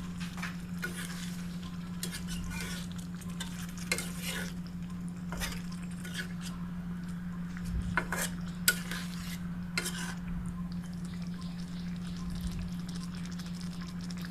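A spatula stirring and scraping against a cooking pot, with scattered clinks, while the egg curry sizzles; a steady low hum runs underneath.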